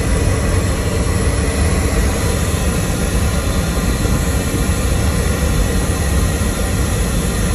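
High-speed train running at speed, heard inside a carriage washroom: a steady low rumble with an even hiss over it.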